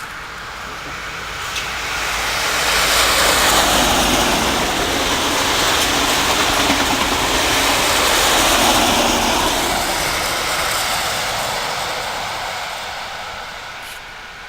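XPT diesel passenger train passing at speed: a broad rushing rumble of wheels on rail that swells over the first few seconds, holds, then fades away over the last few.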